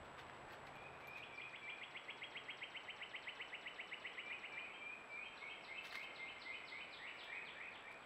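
A songbird singing: a fast run of high repeated notes, about eight a second, that slows about halfway through into separate down-slurred notes, over a faint steady hiss.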